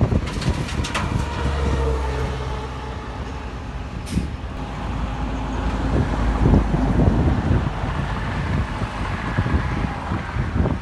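Heavy diesel engine of earthmoving machinery running, its loudness rising and falling, with scattered knocks and a brief hiss about four seconds in.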